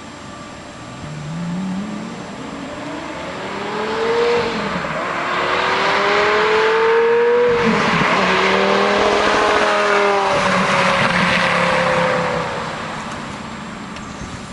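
Lamborghini Gallardo V10 through a Fabspeed Supersport exhaust with X-pipe, accelerating hard toward and past the listener. The engine note climbs, drops once at an upshift about four seconds in, climbs again to its loudest as the car goes by, then falls in pitch and fades away.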